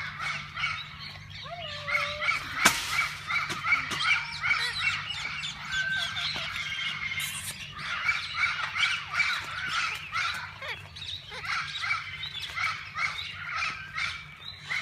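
A flock of parakeets chattering and squawking continuously, many short overlapping calls at once.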